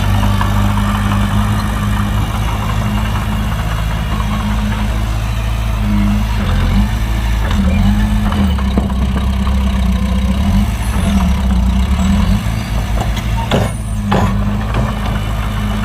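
Heavy diesel engine running, its low hum dropping in pitch and wavering for several seconds midway as the load on it changes, then settling back. A few sharp knocks near the end.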